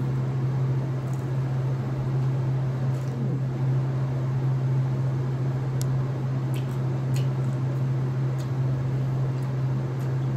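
Someone chewing a bite of toasted bread pizza roll, with a few faint mouth clicks. A steady low hum runs underneath and is the loudest sound.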